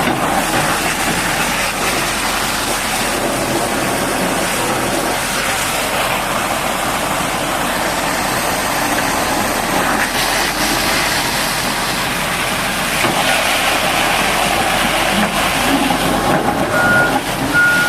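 Steady loud rushing noise of a heavy-equipment wash, with high-pressure water spray and machinery running together. Two short high beeps of a reversing alarm near the end.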